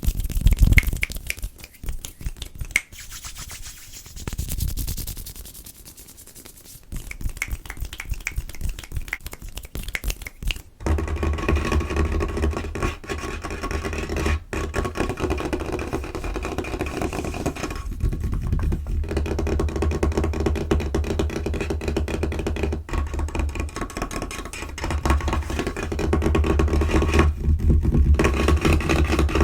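Fast, aggressive fingertip and fingernail tapping, scurrying and scratching on a tabletop, close to the microphone. About eleven seconds in it turns into a continuous, dense scratching and rubbing with a low rumble under it.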